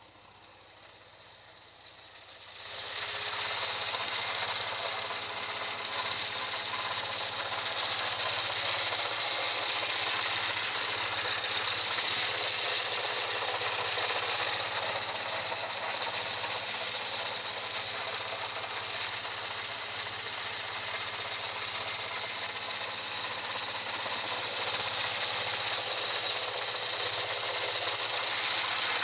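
Toyota 18R-GEU twin-cam inline-four engine running. The sound swells about two to three seconds in, then holds steady with a strong hiss.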